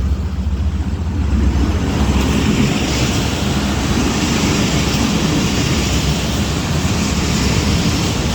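Train noise at a station: a low diesel-engine rumble that fades about a second and a half in, giving way to a steady rushing noise.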